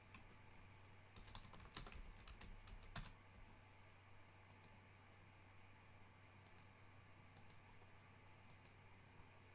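Near silence over a steady low hum, with a quick run of light clicks between about one and three seconds in, then a few faint scattered clicks.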